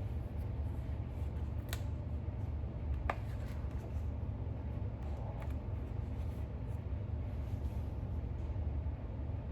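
Book pages being handled and turned, giving three brief papery clicks and a faint rustle, over a steady low room hum.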